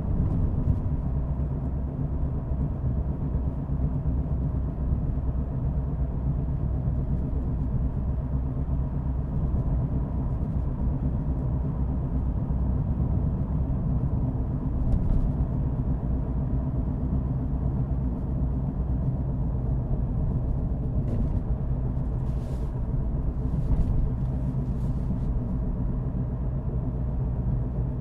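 A car driving at an even pace: a steady low rumble of engine and road noise.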